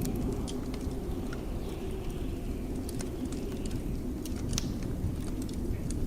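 Wood fire crackling, with scattered sharp pops and ticks, over a steady low rumble of blizzard wind.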